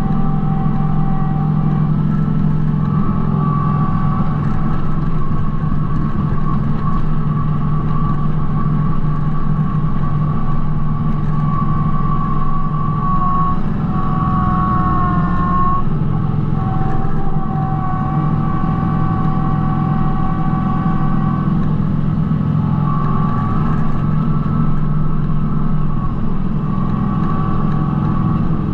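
Kubota B2650 compact tractor's three-cylinder diesel engine running steadily under work, with a high whine over it that wavers in pitch, most noticeably around the middle.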